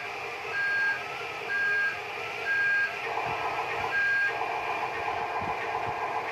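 Radio-controlled toy construction truck reversing, its electronic reversing beeper sounding about once a second over the whine of its small electric drive motors and gears.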